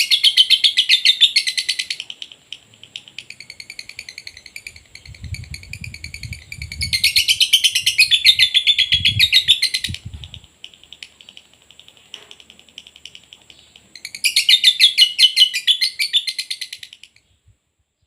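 Lovebird singing a long, fast chattering song in three loud bouts, with quieter chatter between them, and stopping shortly before the end. Some low thumps come in the middle bout.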